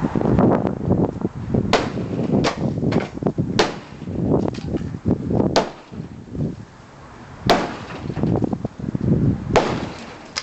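Demolition of a wooden porch roof: about six loud, sharp strikes at irregular intervals, with wood and debris breaking and clattering between them.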